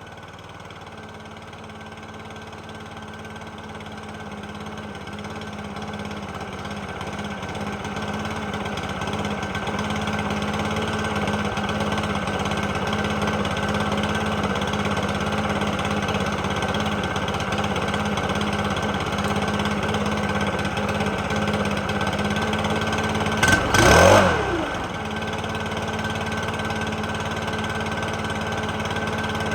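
Stihl BR600 backpack blower engine running steadily after its fuel-system repair. It grows louder over the first ten seconds and is revved up once and dropped back about 24 seconds in.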